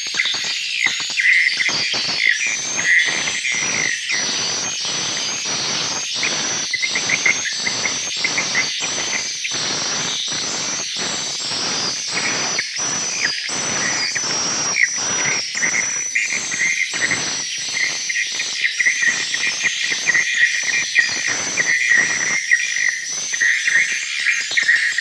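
A crowd of swiftlets calling inside a swiftlet house: continuous rapid high twittering chirps over a dense, irregular train of sharp clicks.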